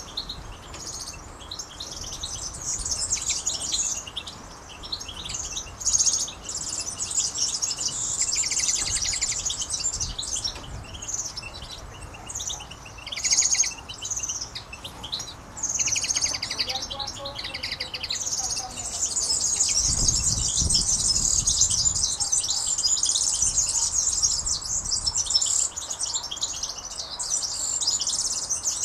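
Many small birds chirping and twittering at once, a dense high-pitched chatter that thickens in the second half.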